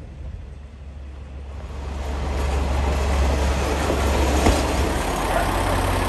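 Train running, its noise swelling over the first two to three seconds and then holding steady over a low rumble, with one sharp clank about four and a half seconds in.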